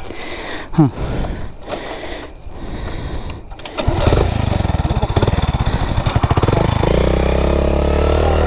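Motorcycle engine being started on a steep slope. It turns over about four seconds in, then catches and settles into a steady idle near the end.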